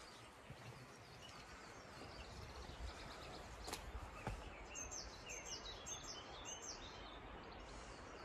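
Faint outdoor birdsong: a small bird repeats a short, high chirping phrase about four times in quick succession about five seconds in, with fainter chirps before it, over a low outdoor hiss and a single sharp click.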